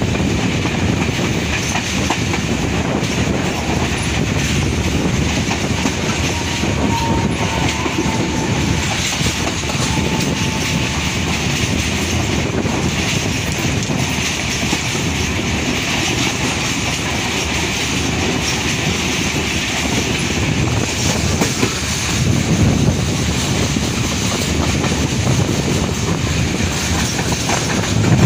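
Passenger train running at speed, heard from an open window beside the carriage: steady noise of the wheels on the rails, with air rushing past.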